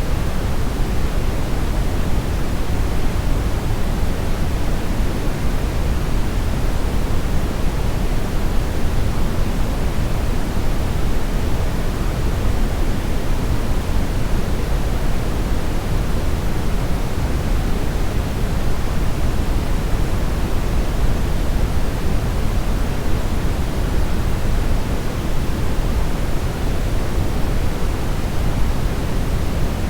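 Steady brownish noise: a constant, even rushing sound, heaviest in the deep lows and thinning toward the highs, with no change throughout.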